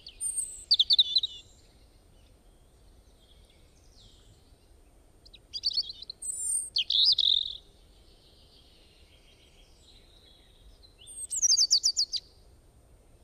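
Songbird chirping in three bursts of rapid, high-pitched notes: about a second in, again around six to seven seconds, and near the end, over faint steady background noise.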